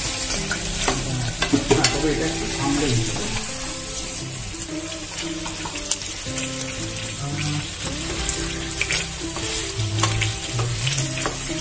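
Chicken sizzling in oil and spice masala in a pan as it is slow-fried (kosha) and stirred, with short clicks of the spoon against the pan now and then. A tune plays softly underneath.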